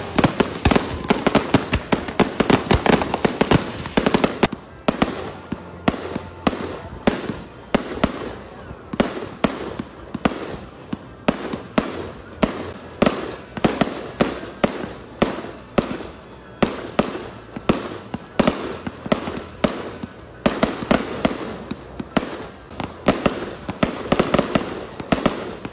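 Aerial fireworks going off in quick succession: a dense barrage of bangs for the first few seconds, then a steady string of separate bangs, about two a second.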